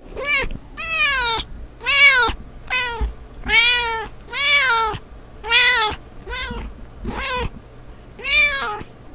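Domestic cat meowing over and over, about ten meows in a row, each rising and then falling in pitch.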